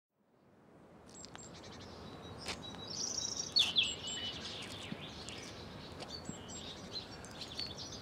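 Small birds chirping and calling over a faint outdoor hiss, fading in from silence during the first second; a brief trill and the loudest chirps come a little past three seconds in.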